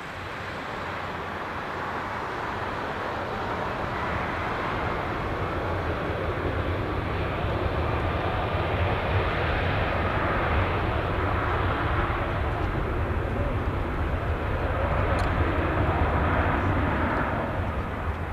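Jet noise from an Airbus A330-343 airliner's Rolls-Royce Trent 700 turbofans as it passes. It is a steady, broad rush that builds over the first several seconds, holds loud, and eases near the end.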